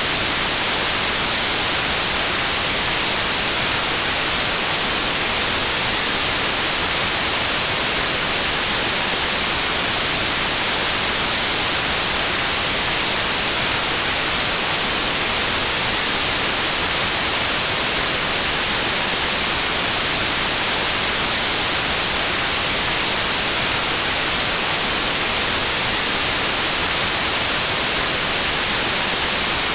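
Steady white noise: an even, unbroken hiss, brightest in the high end, with no change in level or pattern.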